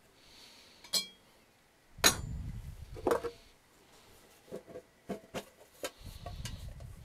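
Cutlery clinking and tapping against plates and dishes during a meal: a sharp clink about a second in, a louder one about two seconds in, then a run of small taps.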